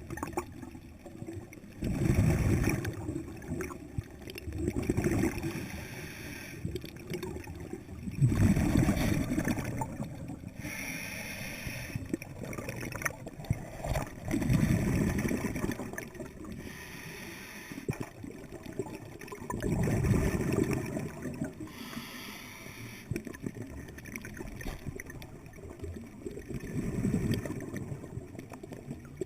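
Underwater scuba regulator breathing: loud gurgling bursts of exhaled bubbles about every five to seven seconds, with quieter bubbling between breaths.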